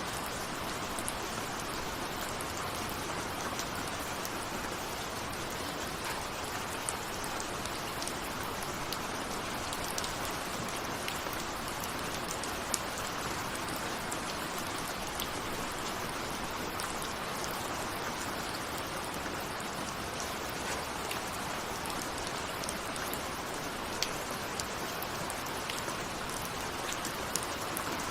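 Steady rain falling, an even hiss with individual raindrops ticking sharply against a surface now and then, with no thunder.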